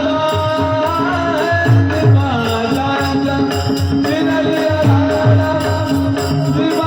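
A male singer holding a long, wavering alaap in Marathi devotional style, over a steady drone and regular drum beats.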